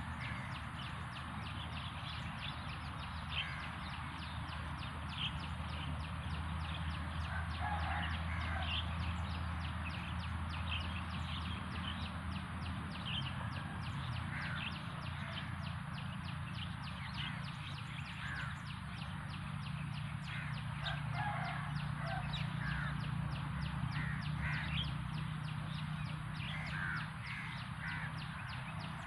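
Birds calling, with short cries scattered throughout, over a steady low hum.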